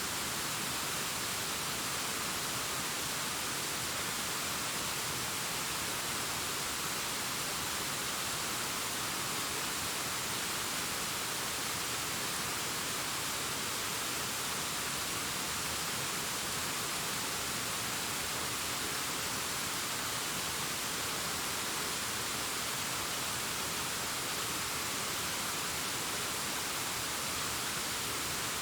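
A distant waterfall cascading down a rockface: a steady, unbroken rushing hiss, stronger in the upper range than the lower.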